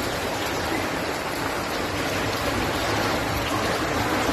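Steady rush of water from a storm, an even hiss with no breaks.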